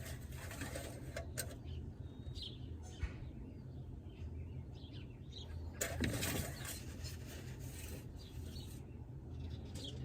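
Small birds chirping now and then over a steady low hum, with a few light clicks and a brief rustle about six seconds in.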